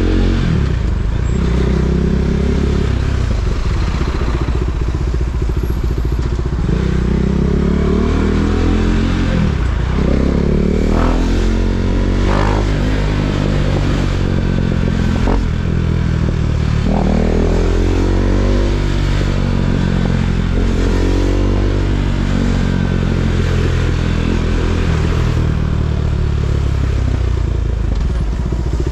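KTM Duke 390's single-cylinder engine running while riding, its pitch rising and falling again and again as the throttle opens and closes, with several quick climbs in revs around the middle.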